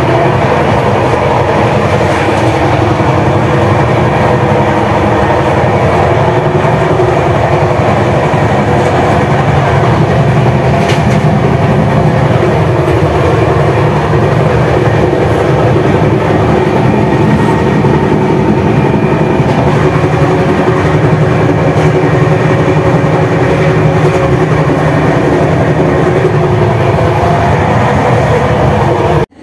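A train running on the rails: a loud, steady rumble with a continuous hum that does not let up, cut off suddenly at the end.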